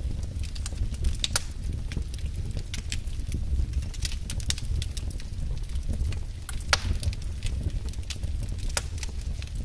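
Wood fire crackling in a fireplace: irregular sharp pops and snaps, a few each second, with one louder snap about two-thirds of the way in, over a steady low rumble.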